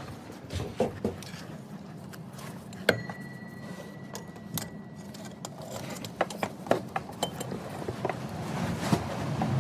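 Metal hand tools and engine parts clinking and knocking during work on the engine. About three seconds in, one metal strike rings on for a couple of seconds.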